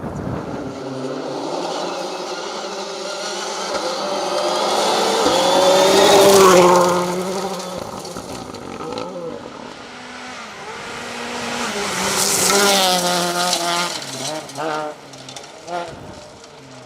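Rally car engine at full throttle passing close by, loudest about six seconds in and again around twelve seconds, its pitch rising as it approaches and dropping away after each pass.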